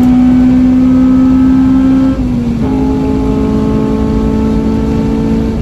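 Modified Honda Civic Type R four-cylinder engine pulling hard at high revs on track, its note slowly rising. About two seconds in the note breaks briefly and drops, as at a quick gear change, then it pulls again.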